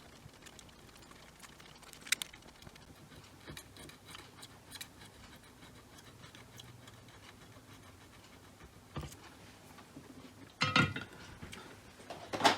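Quiet bench work: faint ticks and taps of a soldering iron and solder wick being worked over a circuit board's pads to remove old solder, with one sharp click about two seconds in and a short, louder rustle near the end.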